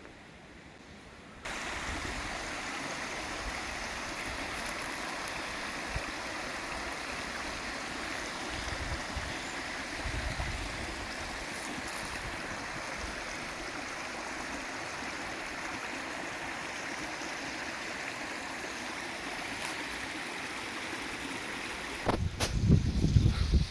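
Steady rushing of flowing water, starting abruptly about a second and a half in. Near the end, uneven louder low rumbling comes in over it.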